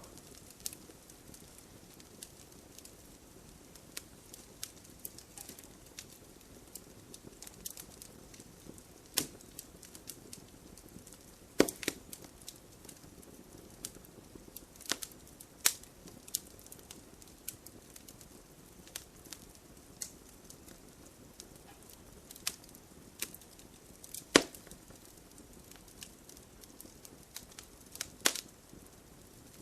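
Wood fire in an open fireplace crackling: a soft steady hiss under irregular sharp pops and snaps, a few of them loud, the loudest about two thirds of the way in.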